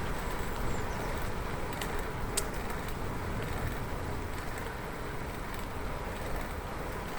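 Steady rolling noise of a bicycle ride on a road, with a sharp click about two and a half seconds in.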